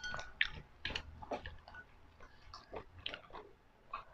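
Close-miked eating sounds: chewing spicy seafood ramen noodles, with irregular soft mouth clicks and smacks.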